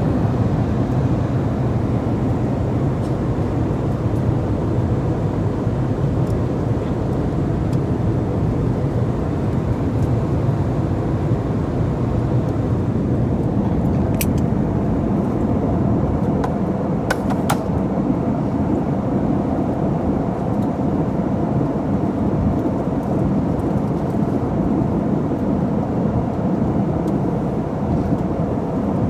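Steady rumble and rush of an airliner cabin in flight: engine and airflow noise heard from a passenger seat. A couple of brief clicks come about halfway through.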